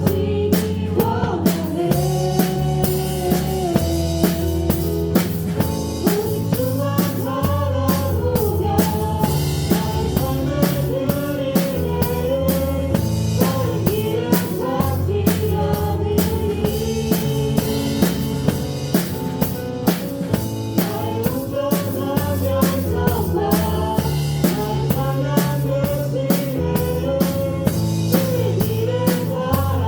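Drum kit playing a steady beat of kick, snare and cymbals within a church praise band's worship song, the drums heard up close from the player's seat, with the band's low sustained notes and sung melody behind.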